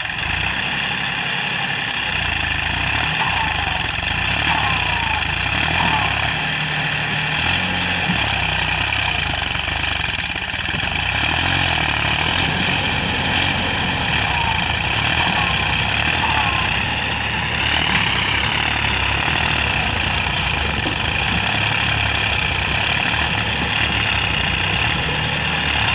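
Massey Ferguson 7250 tractor's diesel engine running steadily.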